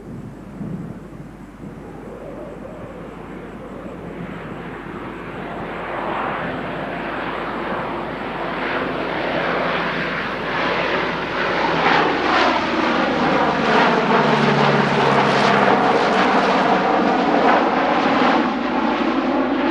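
Four-engine turboprop C-130 Hercules taking off, its engine noise building steadily from faint to loud over about twelve seconds as it approaches. It is loudest in the last several seconds, with a sweeping, phasing tone as it comes close.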